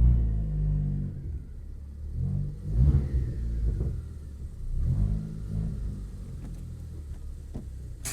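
Turbocharged Ford Focus ST four-cylinder engine revved in three bursts, about two and a half seconds apart, each dropping back to a lower note. A sharp click comes near the end.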